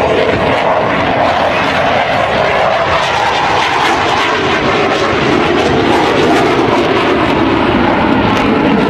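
Dassault Rafale fighter's twin Snecma M88 jet engines, a loud, continuous rush of jet noise as the aircraft flies its display. The pitch shifts midway and the sound grows slightly louder near the end.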